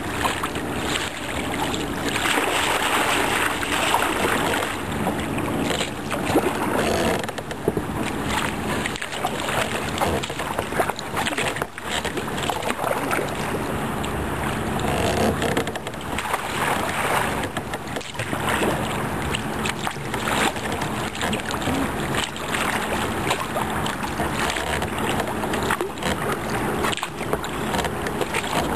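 Rush of fast-moving river water around a paddled kayak, with wind buffeting the microphone in uneven gusts.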